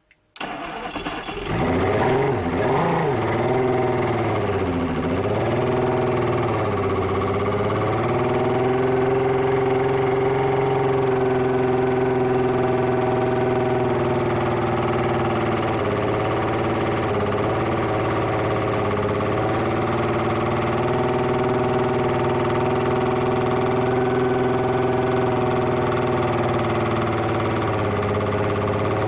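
Evinrude E-TEC 300 hp two-stroke V6 outboard starting about half a second in, its speed rising and dipping unevenly for several seconds before it settles into a steady idle.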